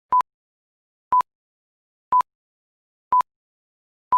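Electronic beeps: one short, high, single-pitched beep each second, five in all, evenly spaced, with silence between.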